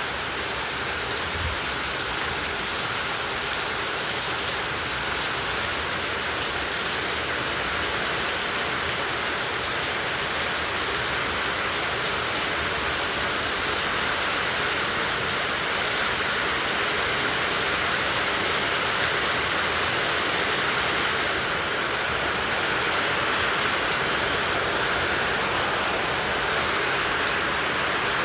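Heavy tropical rain falling steadily, a dense even hiss of rain on surfaces.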